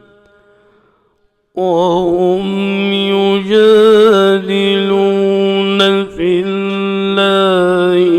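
A male reciter chanting the Quran in a melodic recitation style. About a second and a half in, after a brief pause, he begins with long, held notes that waver in ornamented runs.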